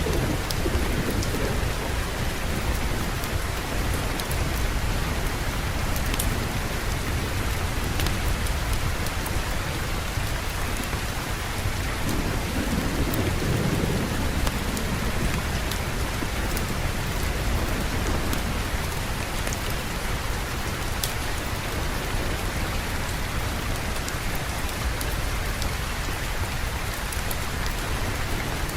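Steady heavy rain, with low rolls of thunder rumbling at the start and again about halfway through, and scattered sharp ticks.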